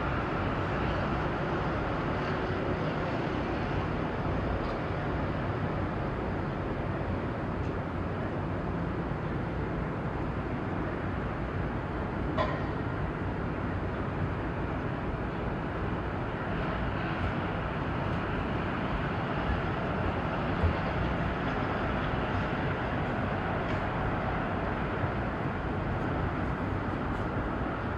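Steady harbourside ambience: a constant low rumble and hiss of distant engines and traffic, with a faint click about twelve seconds in.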